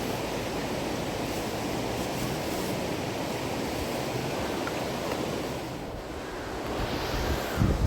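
Steady rush of river water. Near the end, low gusts of wind buffet the microphone.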